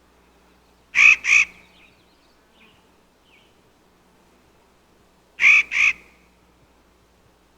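An animal calling twice, about four and a half seconds apart. Each call is a quick pair of short, loud, harsh notes.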